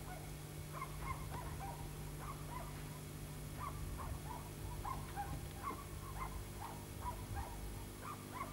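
Birds chirping, several short calls a second overlapping, with a steady low hum underneath.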